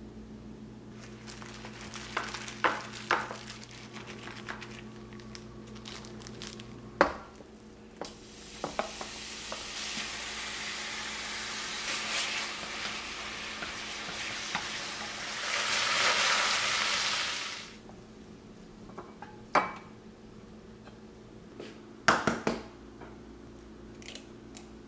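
Minced beef sizzling in a hot pan as it is stir-fried with chopsticks, its juices cooking off. The sizzle builds from about eight seconds in, is loudest a little before it stops suddenly around eighteen seconds. Sharp clicks and taps of utensils against dishes come before and after it.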